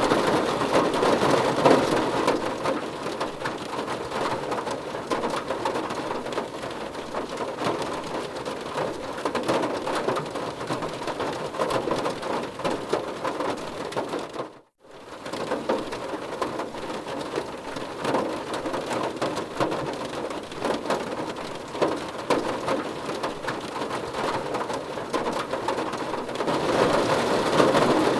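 Steady heavy rain pattering on a surface, a dense even hiss that drops out completely for a split second about halfway through.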